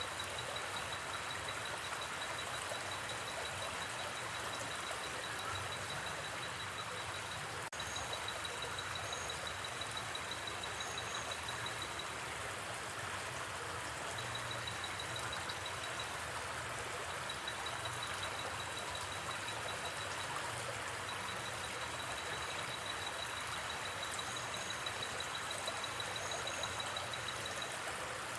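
Gently flowing river making a steady rushing sound, with a high, fast-pulsing trill of night forest sounds that breaks off and resumes several times. A single sharp crackle is heard about eight seconds in.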